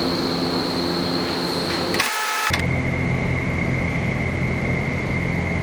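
Steady rush of air and fan noise inside a vertical wind tunnel, with a thin high whine; after a brief break about two seconds in, the noise resumes with the whine at a lower pitch.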